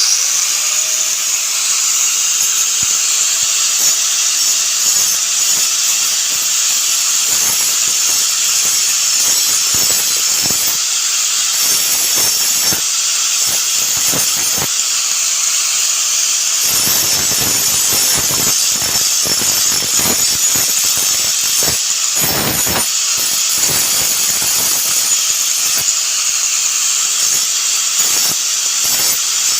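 Small electric grinding tool switching on, spinning up within the first second and then running steadily while it grinds rust off the metal parts of a gas stove's ignition assembly, with a harsh scraping hiss as it bites the metal.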